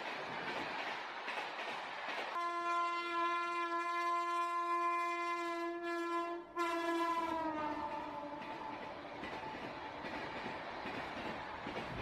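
Freight wagons rolling past close by with a steady rumble. About two seconds in a train horn sounds one long note, breaks off for an instant, then slides down in pitch and fades out.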